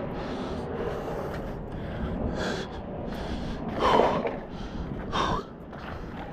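A person breathing hard with exertion: a series of heavy, breathy exhales about a second apart, the loudest about four seconds in, over a low steady rumble.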